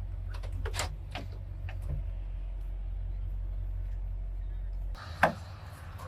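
Steady low rumble inside a truck cab with a few light clicks, then about five seconds in the rumble falls away and outdoor noise comes in as a truck door opens, with one sharp, loud clunk.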